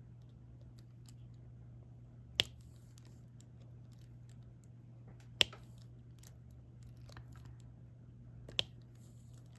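Three sharp plastic clicks about three seconds apart, with faint ticks between, as small resin diamond-painting drills are picked up and pressed one at a time onto the canvas with a stylus. A low steady hum sits underneath.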